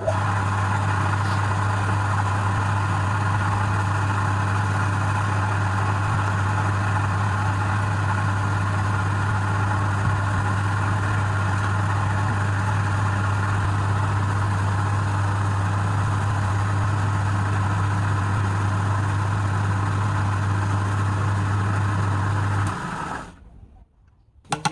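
Woodturning lathe's electric motor running with a steady mains hum, switched off about 23 seconds in and quickly running down.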